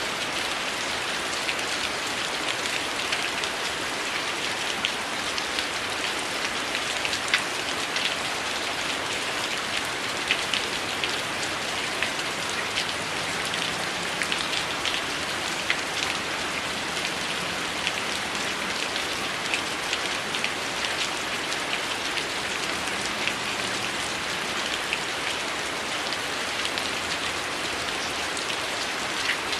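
Steady heavy rain hissing, with frequent short sharp crackles and pops from a wood fire in a fireplace.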